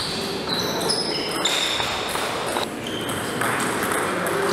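Table tennis being played in a large hall: ping-pong balls clicking on tables and bats, with short high squeaks over a busy background.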